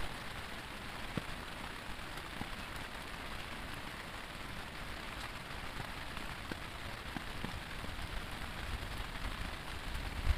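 Heavy rain falling steadily, a dense hiss with scattered drop ticks.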